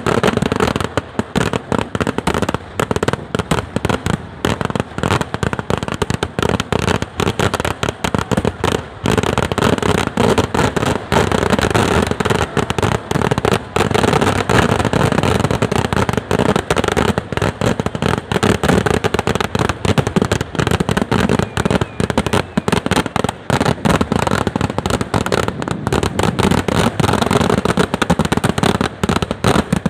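A dense, continuous barrage of firecracker blasts from a Kerala temple-festival fireworks display, many sharp bangs a second, merging into an unbroken crackling roar with no pause.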